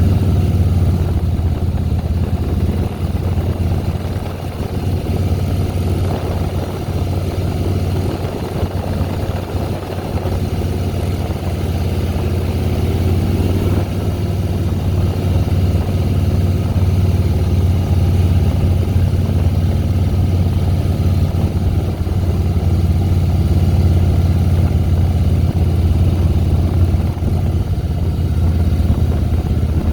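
2010 Harley-Davidson Softail Deluxe's V-twin engine running steadily.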